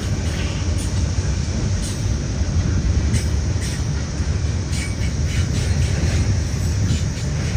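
BNSF intermodal freight train rolling past: a steady, loud rumble of wheels on rail, with scattered short clicks.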